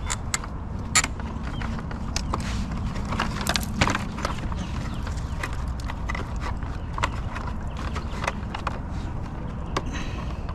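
A pile of coat hangers being handled, clattering in irregular sharp clicks and knocks.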